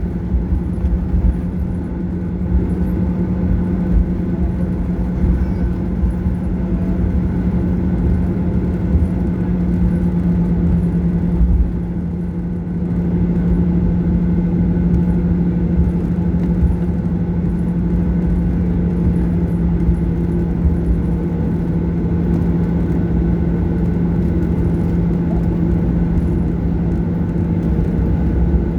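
Boeing 737-800 cabin noise: the CFM56-7B engines running steadily, a low hum over a rumble, with a brief slight dip in loudness partway through.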